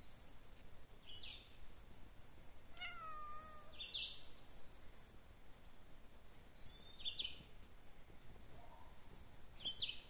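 Wild forest birds chirping, with short high calls here and there and a loud, rapid, high-pitched trill about three seconds in that lasts over a second, a lower falling call sounding beneath it.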